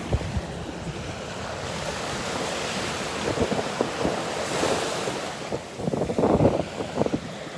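Ocean surf washing on the beach, with a wave surging about halfway through, and wind gusting on the microphone in low rumbles near the end.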